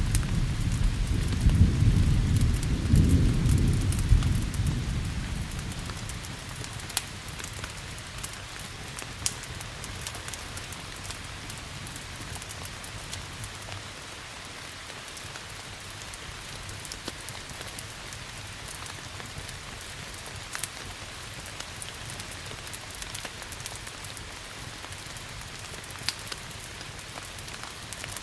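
A low roll of thunder fades away over the first five or six seconds, leaving steady rain. Sharp pops and crackles from a wood fire come and go throughout.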